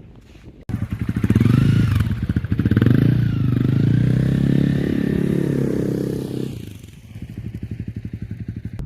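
Honda CRF300L Rally's single-cylinder engine running as the bike rides, its pitch rising twice as it speeds up, then easing off to a quieter run near the end.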